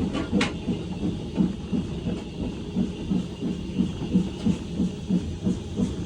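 BR Standard Class 4 2-6-4T steam locomotive 80151 working under steam, its exhaust beating evenly at about three chuffs a second.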